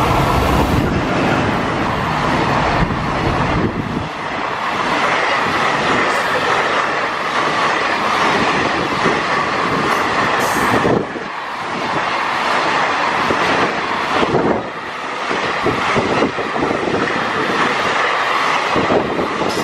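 A container freight train hauled by an EF210 electric locomotive passing close by at speed. The locomotive goes by in the first few seconds, then a long string of container wagons follows with loud, steady wheel-on-rail noise and repeated clacks over the rail joints.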